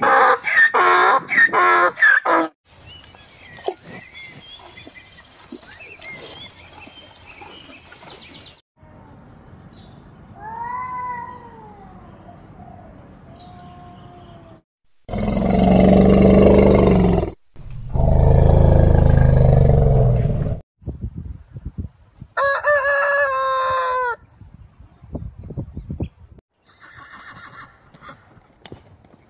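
A string of different animal calls cut one after another. A donkey brays in the first couple of seconds. Later come gliding cat meows, two loud harsh calls, and a falling pitched call.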